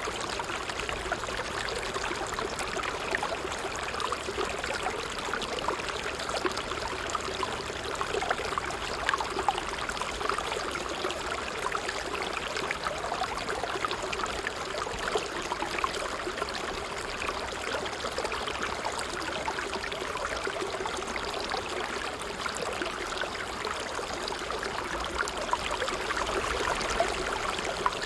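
Water trickling steadily, a continuous fine bubbling and splashing like a small stream.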